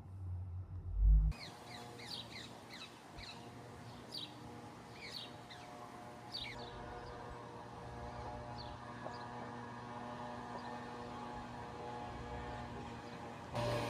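A low hum and a thump about a second in. Then a bird calls with short descending chirps about two a second, thinning to a few later on, over the steady hiss of falling rain.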